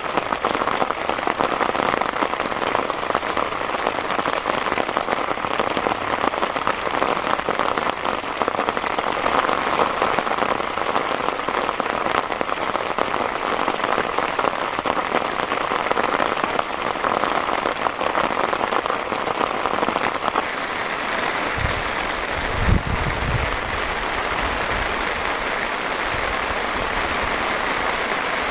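Heavy rain falling steadily, a dense hiss of many drop impacts. About three quarters of the way through the drops blur into a smoother rush, with a brief low rumble.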